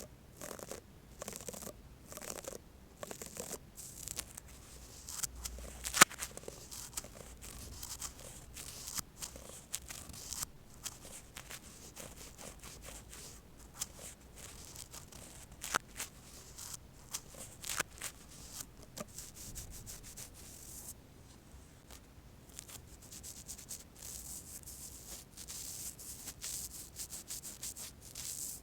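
Brush bristles stroked and scratched close to the microphone: a dense, irregular scratchy rustle with scattered small clicks and one sharp tap about six seconds in.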